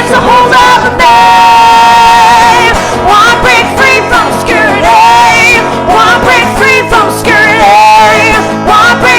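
Acoustic live performance of a song: a singing voice over acoustic guitar, with melodic vocal runs and one long held note about a second in.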